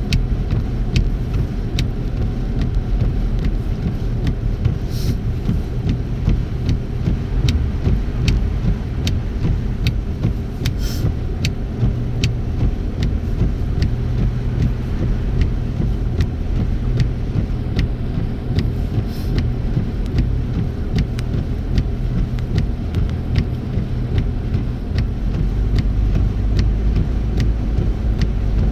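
Car driving at steady highway speed, heard from inside the cabin: a constant low engine and road rumble, with light ticks repeating a little under twice a second.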